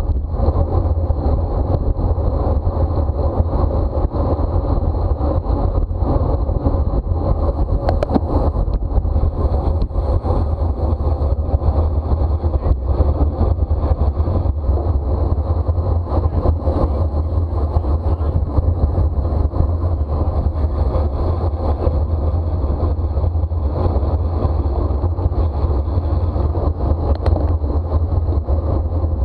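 Wind buffeting the microphone of a camera on a bicycle racing at speed: a steady, loud, low rumble.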